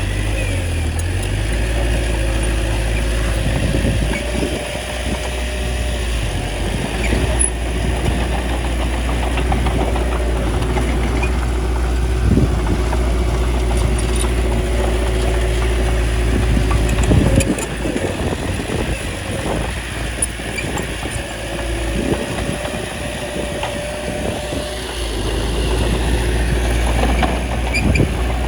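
Small bulldozer's diesel engine running steadily as it pushes soil, its low rumble rising and easing as the load changes, with a few sharp clanks, the loudest about 17 seconds in.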